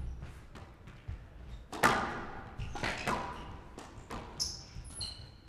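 Squash rally: sharp cracks of the ball off racket and walls, the loudest about two seconds in, with short shoe squeaks on the court floor in the second half.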